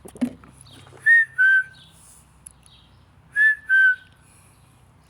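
A person whistling a two-note call, a higher note dropping to a slightly lower, longer one, given twice about two seconds apart, in imitation of a bird.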